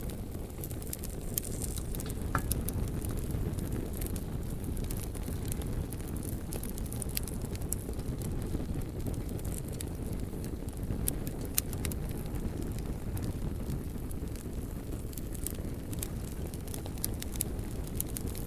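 Wood fire burning: a steady low rush of flame with scattered sharp crackles and pops throughout.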